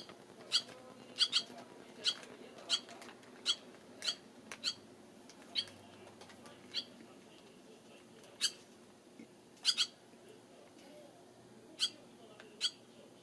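Barn swallow giving short, sharp chirps, about one to two a second at first and fewer later.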